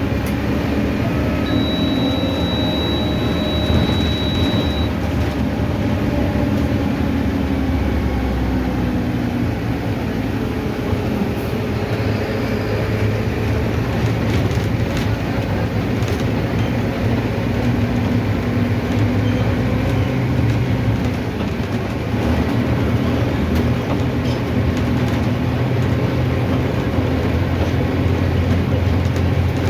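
Mercedes-Benz OF-1519 city bus's four-cylinder diesel engine running on the road, with steady road noise and scattered rattles. The low engine hum shifts in pitch as the bus changes speed. A thin high beep is held for about three seconds near the start.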